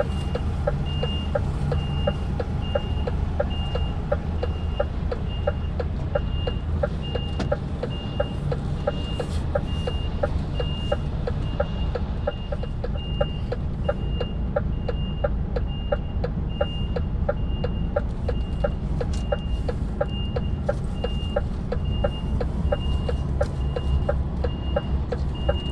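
Articulated lorry's reversing alarm beeping steadily, about one and a half beeps a second, over the low running of the diesel engine, with a regular faint ticking alongside.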